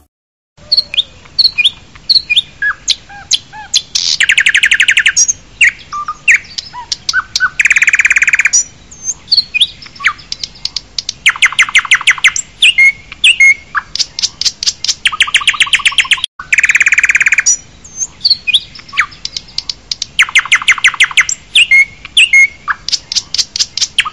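Songbirds singing: rapid trills about a second long recur every few seconds, mixed with many short chirps and whistles.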